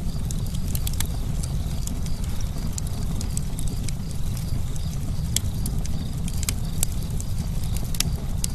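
Campfire burning with a steady low rumble and frequent sharp, irregular crackles and pops.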